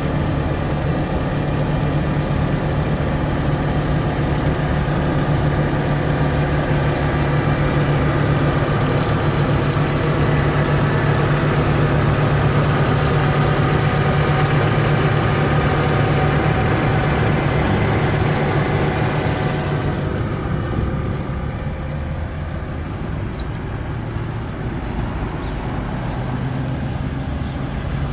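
BMW E46 320's petrol inline-six idling steadily, heard from beneath the car. About twenty seconds in it becomes quieter and duller.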